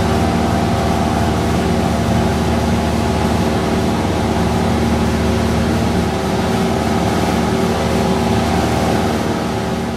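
Cessna 172's piston engine and propeller droning steadily, heard inside the cockpit. The sound begins to fade near the end.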